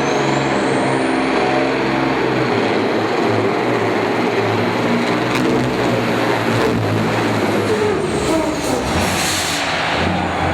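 Engine of a Supersport-class competition pulling truck running hard, a loud, continuous drone whose pitch wavers up and down.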